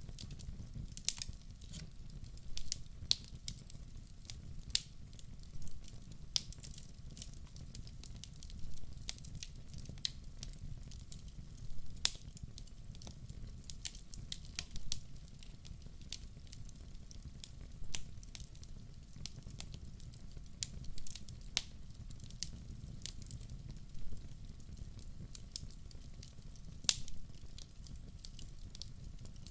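Wood fire burning in a fireplace: a low steady rumble of flames with frequent irregular crackles and pops, a few sharper snaps standing out.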